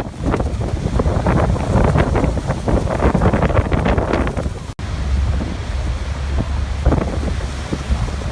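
Gusty wind buffeting the microphone with a heavy low rumble over rushing water, surging irregularly. The sound drops out for an instant a little past the middle.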